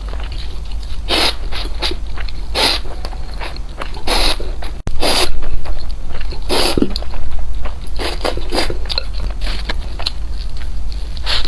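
Close-miked eating: crunchy bites and chewing, a sharp crunch about every second or so, over a steady low hum.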